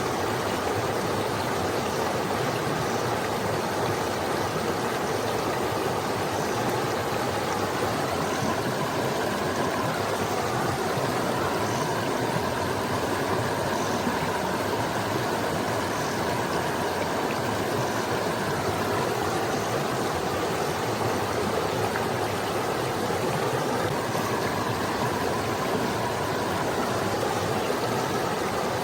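Small forest stream flowing over rocks: a steady, even rush and babble of water.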